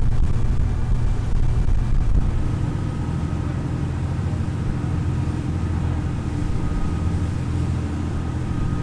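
A large engine running with a steady low drone. A faint high whine joins about two and a half seconds in.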